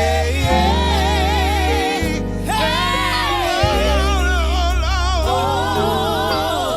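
Gospel song: singing with strong vibrato over sustained keyboard chords and long held bass notes.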